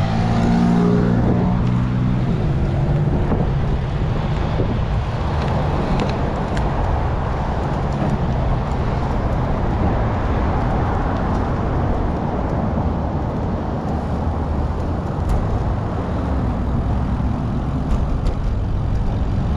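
Steady road traffic noise from cars passing close by, with one vehicle's engine hum strongest in the first couple of seconds.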